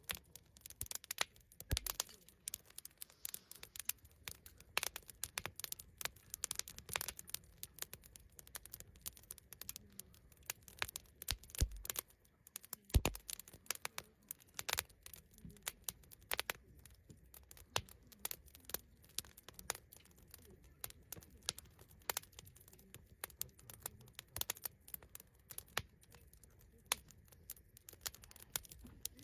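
Wood campfire crackling and popping in an irregular run of sharp snaps, with a few dull thumps, the loudest about a third of the way in.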